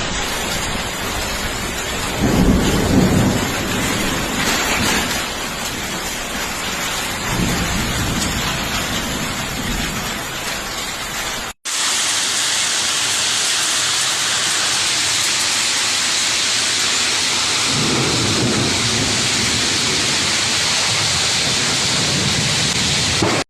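Heavy rain and hail hammering down in a squall, a dense steady roar with a few swelling low rumbles of wind or thunder. The sound cuts off abruptly partway through and resumes at once, even and loud.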